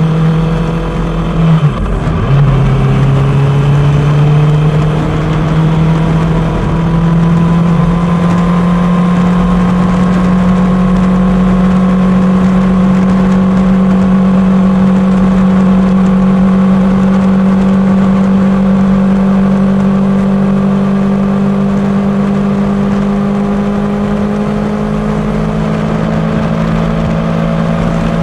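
Suzuki GSX-R750 inline-four engine running under way at a steady speed; its note dips sharply and briefly about two seconds in, then holds a steady pitch that slowly rises.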